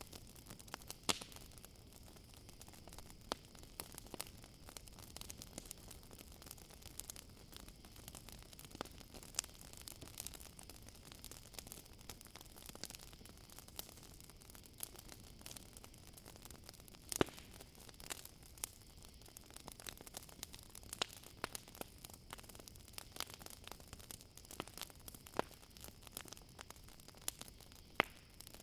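Campfire crackling: irregular sharp pops and snaps, a few much louder than the rest, over a low steady hiss. A steady high trill of crickets runs behind it.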